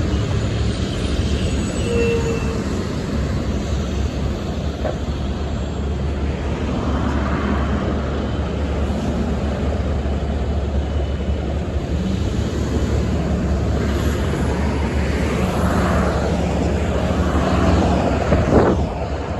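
Steady low rumble of road vehicles, with a louder pass-by whose pitch falls near the end.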